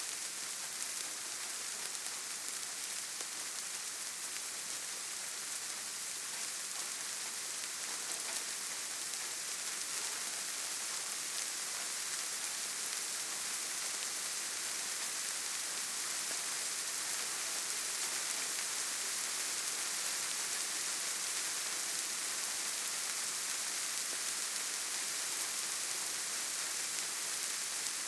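Steady rainfall on foliage and ground: an even hiss of many drops, weighted toward the high end, with faint scattered drips.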